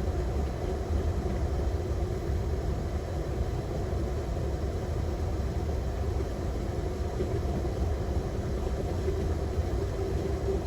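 Steady low rumble of an airliner's engines idling, heard inside the cockpit, with a faint steady hum over it.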